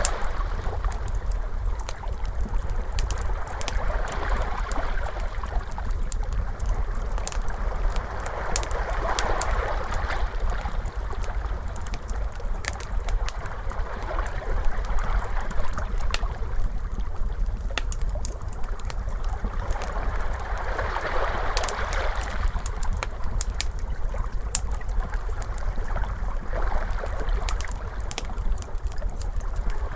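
Ocean waves washing in and out, swelling every few seconds, under a crackling fire with many small sharp pops scattered throughout, over a steady low rumble.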